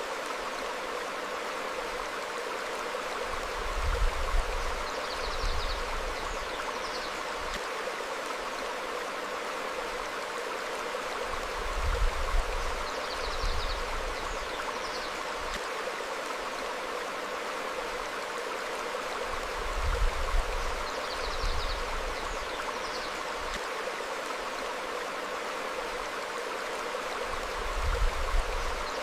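Stream flowing over rocks, a steady rush of water, with a brief low rumble swelling up about every eight seconds. Short high bird chirps come in pairs shortly after each rumble.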